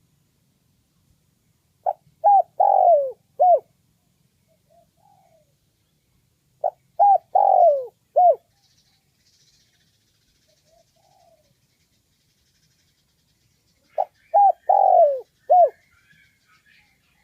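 Spotted dove cooing: three phrases about five to seven seconds apart, each a few short coos around one longer, falling coo.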